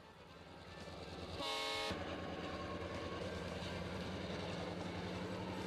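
Excursion train locomotives working hard up a steady grade, their engines giving a rhythmic low rumble that grows louder over the first second and a half. A short horn blast sounds about a second and a half in.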